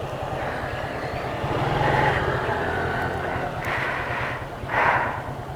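Motorcycle engine idling steadily with an even low pulse, with a few brief louder noises about two seconds in and again near the end.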